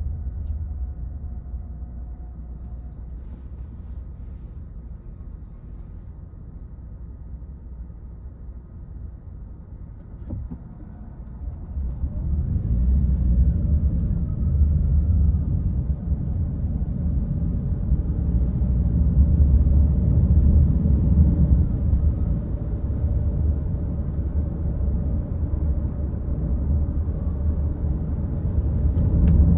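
Car driving, a steady low rumble of engine and road noise. It is quieter at first and grows louder about twelve seconds in, as the car picks up speed.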